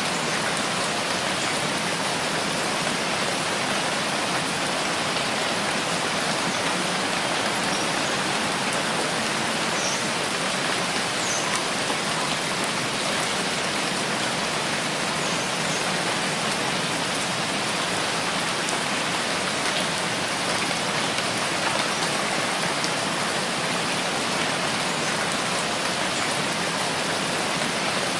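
Steady rainfall, a dense, even hiss that does not change.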